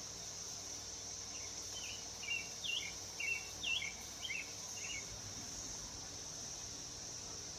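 A steady, high-pitched drone of insects, with a bird singing a quick phrase of about ten short chirped notes beginning about a second in and ending near the middle.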